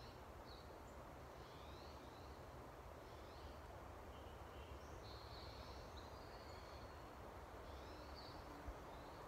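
Near silence in a forest: faint, scattered bird chirps and short whistles over a low steady background hiss.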